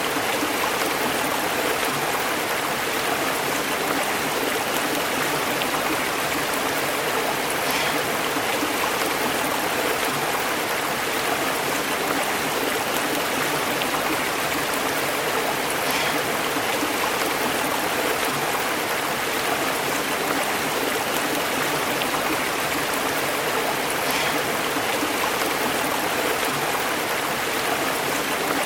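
Stream water flowing steadily and burbling over rocks, an even rushing with a faint brief splash about every eight seconds.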